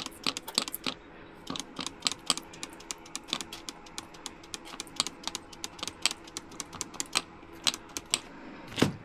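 A trigger spray bottle squeezed rapidly over and over, a quick spritz several times a second with brief pauses, wetting brazed refrigerant joints with soapy leak-detection solution while the circuit holds nitrogen pressure. A faint steady hum runs underneath.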